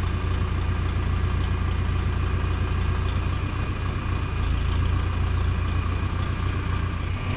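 Tractor engine running steadily at low speed while backing a grain auger up to a bin.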